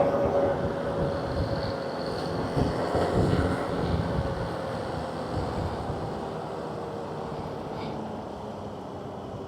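Motorcycle engine running with rushing wind noise. Its steady tone slowly drops in pitch and the sound gradually fades, like a bike easing off.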